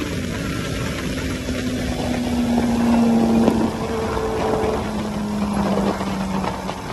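Kawasaki ZX-14R's inline-four engine at road speed, heard from on the bike, its note falling slowly as engine speed drops, with wind rushing over the microphone.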